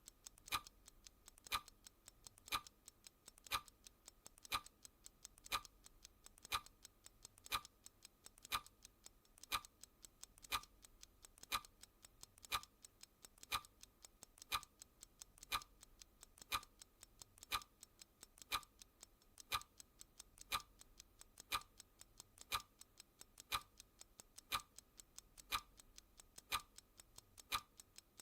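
Clock ticking sound effect: one sharp tick each second, with fainter second-hand ticks in between, in a steady even rhythm.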